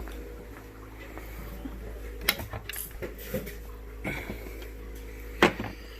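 Equipment being handled on a workbench: a scatter of small clicks and knocks, the loudest a sharp knock near the end, over a steady electrical hum.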